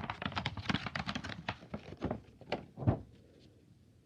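Crackling and crinkling of a fortune cookie's plastic wrapper being torn open and handled, a dense run of small clicks that stops about three seconds in.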